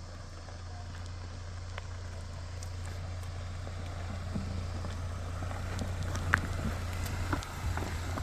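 Car engine running with a steady low hum that grows gradually louder, with scattered light clicks and one sharp click about six seconds in.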